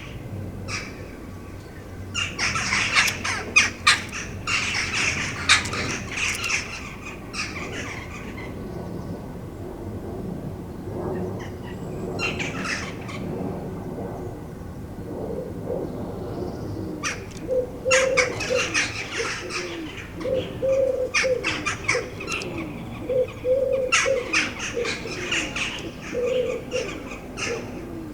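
Garden birds calling and chirping at a feeder, in busy high bursts mixed with wing flutters. Over the second half a wood pigeon coos in short low phrases that repeat every few seconds.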